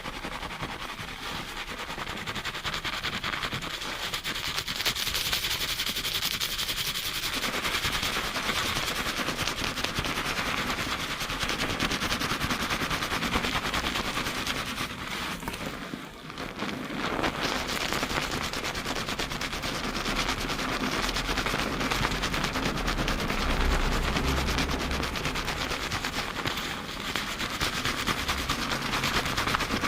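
Fingers scrubbing a lathered scalp at high speed, a dense, continuous crackling of foam and hair, briefly easing off about halfway through.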